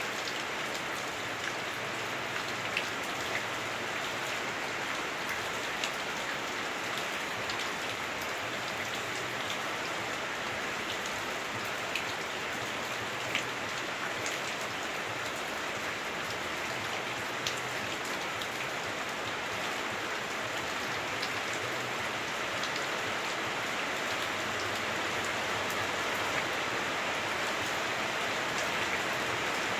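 Heavy rain on a house roof heard from indoors: a steady dense hiss with scattered sharper drops ticking through it, slightly muffled by the roof.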